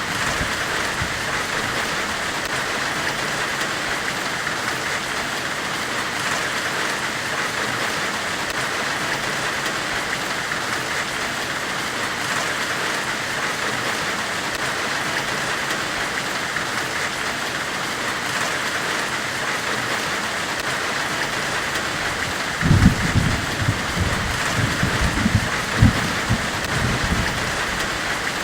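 Steady hissing white noise, even and unbroken. From about three-quarters of the way through, a run of low rumbling thumps sounds under the hiss.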